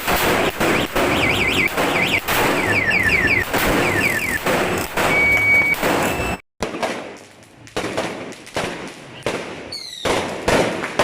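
A Sawa firecracker string (Judas belt) going off in a rapid, continuous crackle of bangs. A repeated high chirping tone sounds over it in the first few seconds. About six seconds in the sound breaks off for a moment, then the bangs come back more sparsely.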